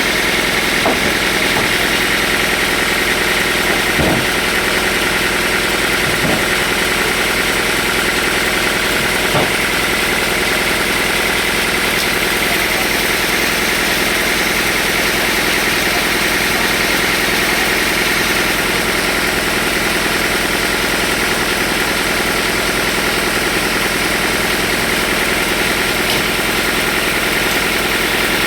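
Sawmill machinery running steadily with a constant motor drone, with a few light knocks in the first ten seconds.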